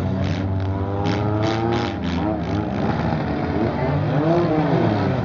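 Demolition-derby car engines running and revving, rising and falling in pitch, with a quick run of sharp knocks in the first couple of seconds.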